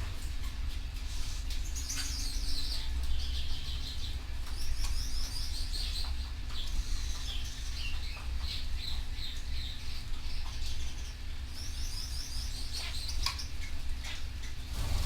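Canary singing in fast, high trilled phrases, breaking off for a few seconds past the middle before a last burst of trills. Under the song are a steady low rumble and scattered light clicks.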